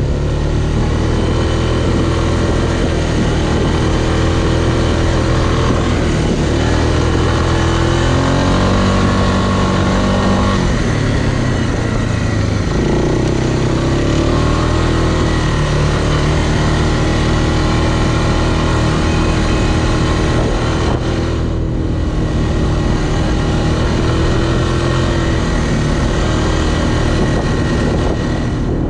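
Off-road vehicle engine running under load through mud, revving up and down, with its pitch rising and falling several times.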